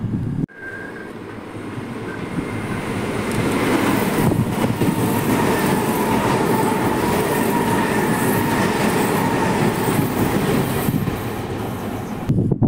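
Meitetsu 2000-series μSKY limited express train passing through a station without stopping: a steady rumble of wheels on rail with a faint whine. It builds over the first few seconds and dies away near the end.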